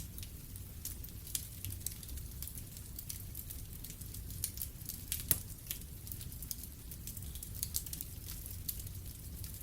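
Wood fire in a fireplace crackling, with scattered irregular pops over a low steady rumble; the sharpest pop comes about five seconds in.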